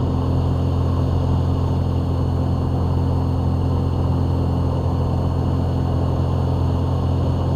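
Light aircraft engine and propeller drone heard from inside the RV-7's cockpit, a steady low hum with no change in pitch, as the plane goes around from short final.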